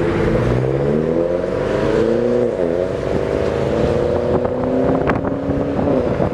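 Subaru WRX STi's turbocharged flat-four engine pulling hard under acceleration, its note rising. A quick gear change dips the pitch about two and a half seconds in, then the pitch climbs again and falls near the end as the driver lifts off.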